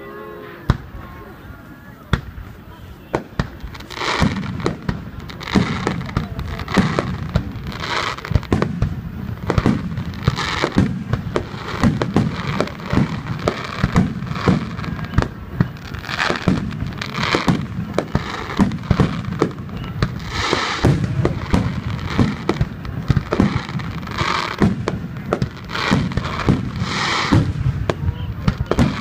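Fireworks display: aerial shells bursting in quick succession, deep booms mixed with crackling stars. It starts sparse and becomes a dense barrage from about four seconds in.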